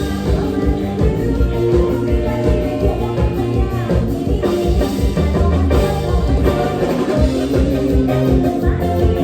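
Live band playing upbeat Isan toei (mor lam) music, with a steady drum beat and electric bass.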